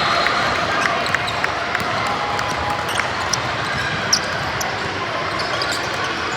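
Basketball game in a gym: a ball bounces on the court and sharp knocks come every second or so, over steady hall noise, with a few brief squeaks.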